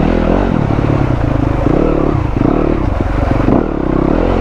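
Dirt bike engine running under load while being ridden, its pitch rising and falling with the throttle.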